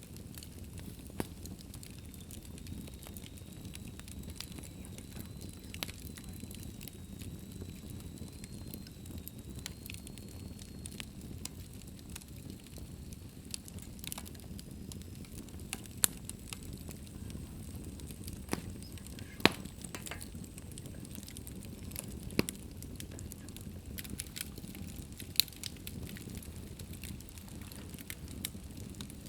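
Wood fire burning in an open fireplace: a steady low rumble of flames with irregular sharp crackles and pops, a few much louder snaps in the second half. A faint thin high whistle runs through the first ten seconds or so.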